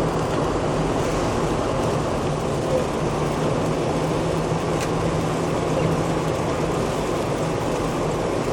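Steady vehicle running noise: an even rush of road and tyre noise with a low, constant engine hum.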